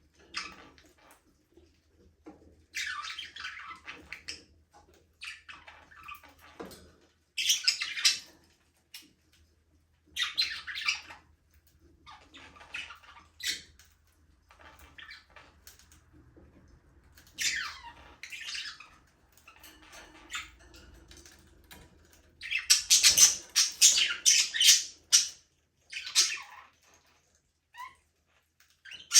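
Budgerigars chirping and chattering in short irregular bursts, with a longer, louder run of chirping about three-quarters of the way through.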